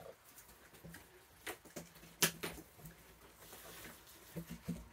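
Raccoons feeding on peanuts: scattered sharp clicks and knocks, the loudest a little over two seconds in and a couple more near the end.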